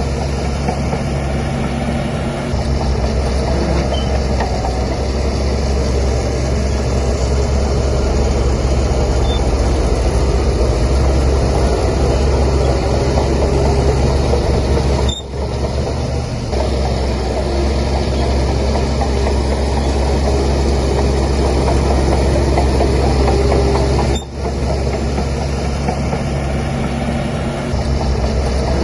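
Diesel engine of a Shantui DH17C3 bulldozer running steadily under load while it pushes soil, with a deep, constant rumble. The sound dips briefly twice, about fifteen and twenty-four seconds in.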